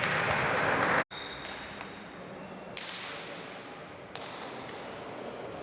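Sports hall ambience. A loud rush of noise cuts off abruptly about a second in, and after a moment of silence a quieter, steady hall murmur follows with a couple of faint knocks.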